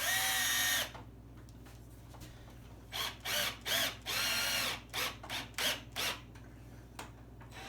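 Power drill driving screws into a wooden rack: one long run of the motor at the start, then a series of short trigger bursts about three to six seconds in, the motor whine rising at the start of each.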